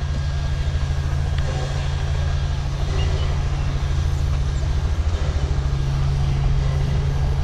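A moving train carriage gives a steady low rumble with a fast flutter in it.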